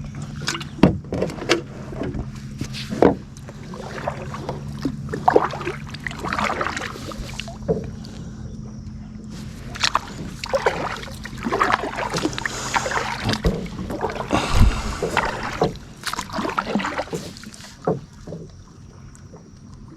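Kayak paddling: water swishing and splashing off the paddle blades in irregular strokes, with sharp knocks now and then of the paddle against the hull. A steady low hum runs underneath until near the end.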